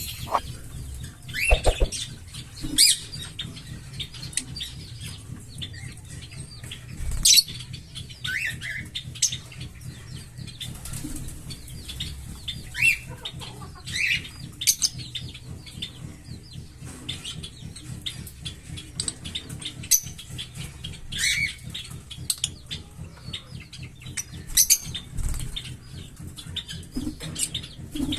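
Small pet parrots chirping and calling in short, scattered bursts, with wing flutters and rustling as they move about their cage.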